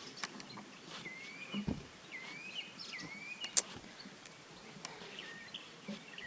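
Faint outdoor ambience with a bird singing three short, similar whistled phrases, each sweeping up and down. A few sharp clicks, the loudest about halfway through.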